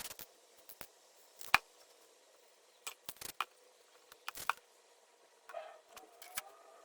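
Scattered sharp clicks and light knocks of hard objects being handled, about ten in all, the loudest about a second and a half in.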